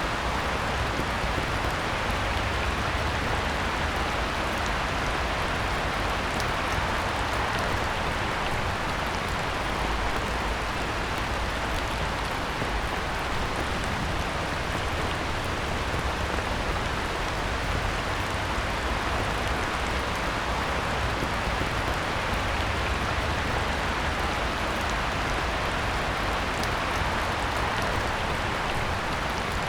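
Heavy rain falling on a pond: a steady, even hiss of downpour with scattered drop ticks.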